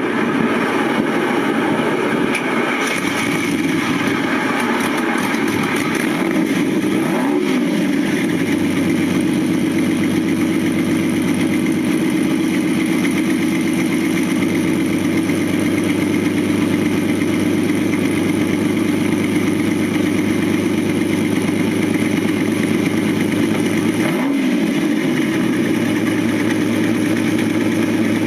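A 1985 Lamborghini Countach QuattroValvole's 48-valve V12 with six downdraft carburettors idling steadily. The throttle is blipped briefly twice, once about seven seconds in and once late on, each time rising and falling back to idle.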